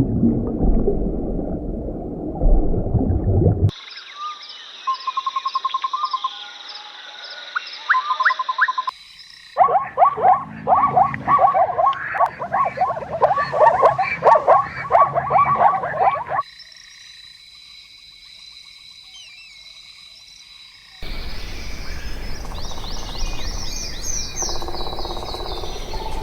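A string of short animal sound clips cut one after another, the busiest a chorus of frogs croaking in quick, overlapping calls.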